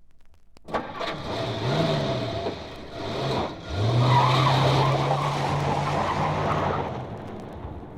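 Motor vehicle engine from a sound-effects record, rising and falling in pitch, then holding a steady pitch for about three seconds under loud rushing noise, fading near the end.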